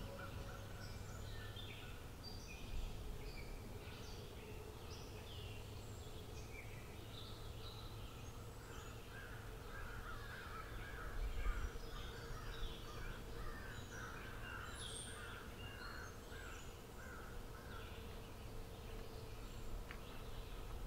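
Faint wild birds singing and calling, with many short high chirps throughout and a run of repeated lower calls near the middle.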